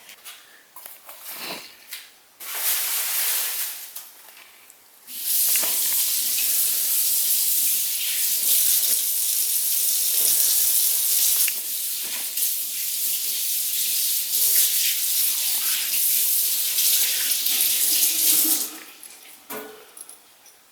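Water running from a tap into a sink: a short run, then a longer steady one of about thirteen seconds that stops near the end.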